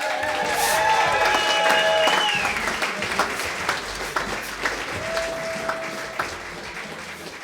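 Audience applauding, the clapping fading away. A few held tones sound over it in the first two seconds and once more about five seconds in.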